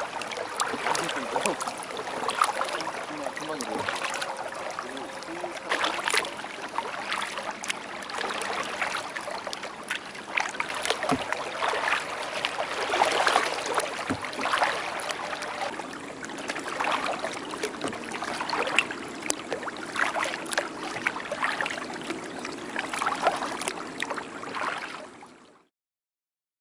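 Kayak paddle strokes in river water: splashing and trickling that swell every few seconds as the blades dip. The sound cuts off suddenly near the end.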